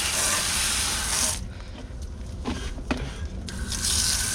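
Garden hose spray nozzle hissing as water is sprayed onto an air conditioner's condenser coil. The spray cuts out about a second and a half in, with a couple of faint clicks, and starts again near the end.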